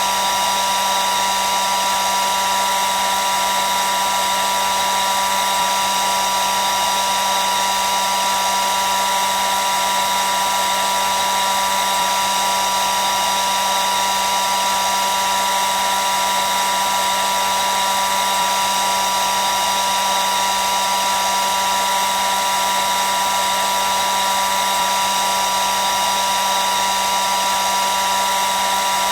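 Hair dryer running steadily: an even rushing of air with a constant motor whine.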